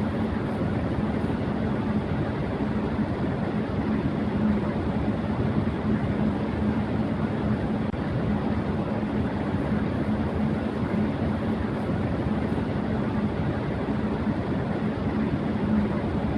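Electric fan running at high speed: a steady rush of air with a low motor hum beneath it, unchanging throughout.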